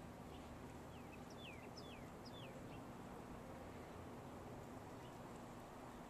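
Faint bird chirps: a quick run of about half a dozen short, high notes, each falling in pitch, in the first three seconds, over a steady low hiss.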